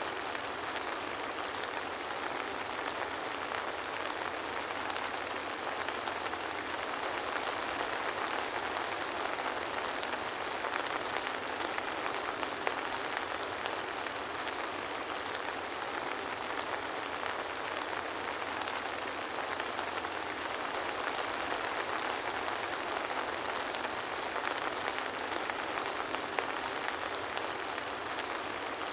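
Steady soft rain falling, an even hiss with faint scattered drop ticks and no thunder.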